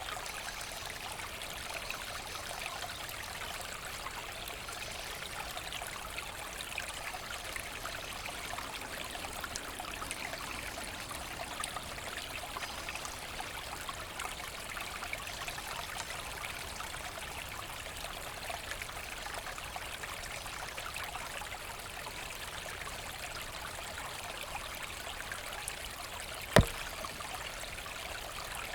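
A small forest brook running and trickling steadily, with one sharp click near the end.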